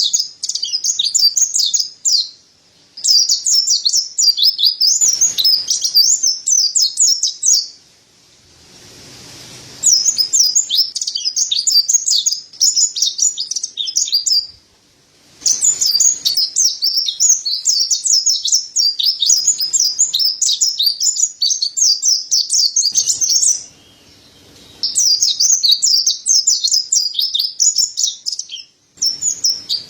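Mountain white-eye (pleci dada putih) singing: long runs of fast, high twittering song broken by short pauses a few times.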